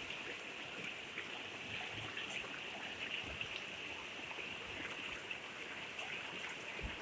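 River water running steadily, a faint even rush with a few small ticks and splashes.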